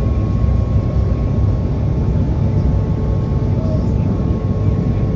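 SEPTA trolley running along the track: a steady low rumble with a faint, even whine over it.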